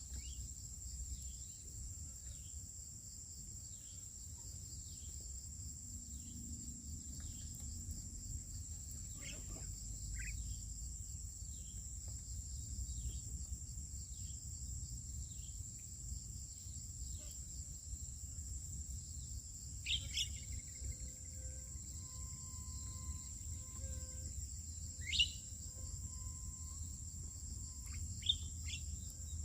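Steady high-pitched drone of crickets or similar insects, with a few short bird chirps scattered through it, the clearest about two-thirds of the way in, and a low rumble underneath.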